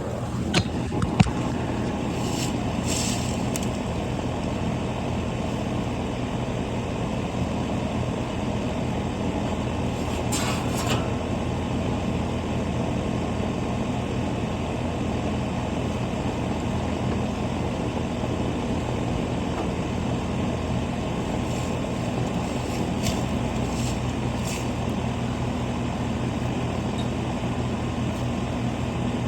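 Steady low mechanical hum of running machinery, with a few brief clicks and rattles.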